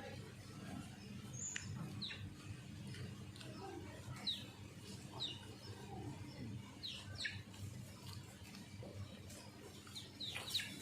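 Small birds chirping intermittently: short, high, downward-slurred chirps scattered every second or so, over a low steady background hum.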